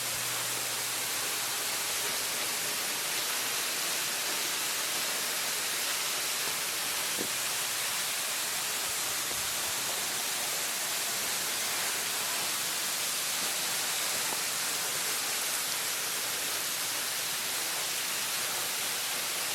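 Webster's Falls, a waterfall, giving a steady, even rush of falling water.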